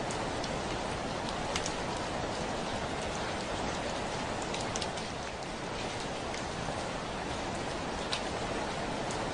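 Heavy rain falling steadily on a window, a constant hiss with sharper individual drop taps striking now and then.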